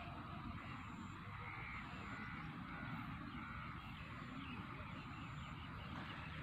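Birds calling over and over in open farmland, over a steady low rumble of wind on the microphone, with a thin high-pitched chirp repeating about once a second.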